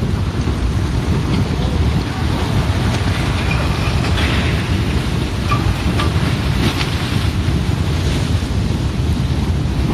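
Mudslide (debris flow) coming down a mountain, a steady low rumbling rush with wind noise on the microphone and a few faint knocks in the middle.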